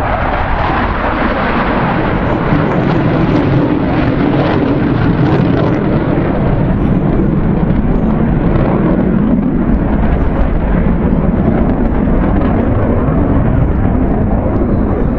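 Loud, steady jet noise from RAF Tornado GR4 strike jets with twin RB199 turbofan engines, flying close by throughout.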